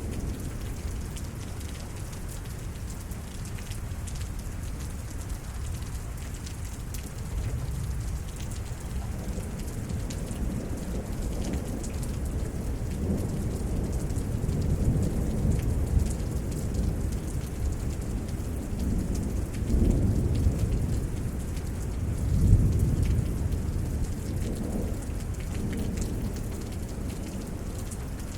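Steady rain falling during a thunderstorm, with rolling thunder rumbling low underneath. The rumbling swells through the second half, loudest about 22 seconds in.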